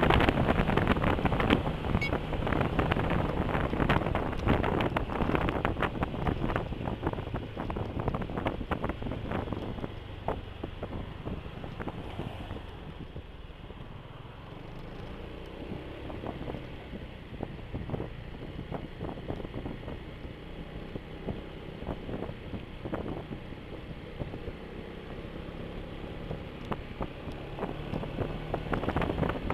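Wind rushing over the microphone of a moving motor scooter, with engine and road noise underneath. It is louder for roughly the first ten seconds, then settles quieter as the scooter slows.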